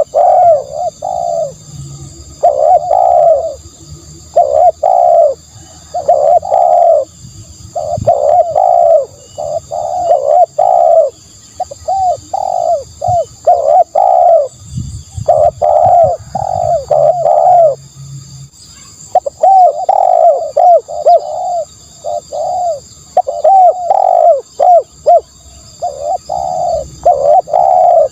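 Spotted dove cooing: short coos delivered in quick groups of several notes, one group after another, with a brief pause about two-thirds of the way through.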